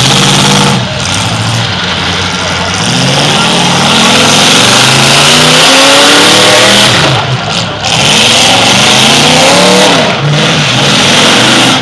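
Demolition derby car engines revving hard at full throttle, their pitch climbing and falling repeatedly, over a steady wash of noise. This fits cars hooked together and pulling against each other.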